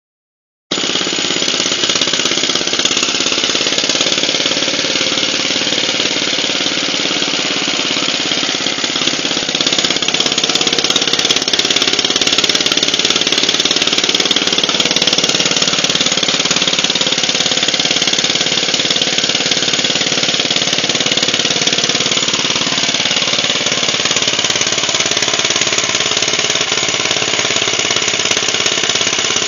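Bernard W112 stationary engine running steadily with a fast, even knocking beat, back in running order.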